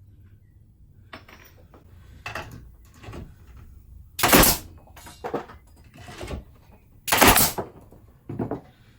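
A pneumatic denailer firing twice, two loud sharp blasts about three seconds apart, with lighter knocks and clatter of the tool, timber and nails in between.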